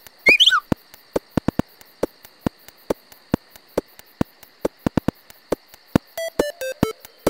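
A brief falling whistle-like sound effect about a quarter second in, over a night ambience of a steady high insect drone and irregular sharp clicks. About six seconds in, 8-bit chiptune music starts with stepped beeping notes.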